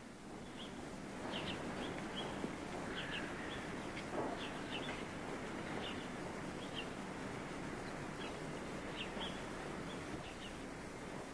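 Small birds chirping in short repeated calls over a steady background hiss, which grows louder about a second in.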